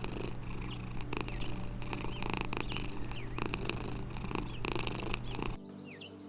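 A cat purring steadily, with scattered small clicks and faint high chirps over it. It cuts off abruptly near the end, leaving quieter chirping.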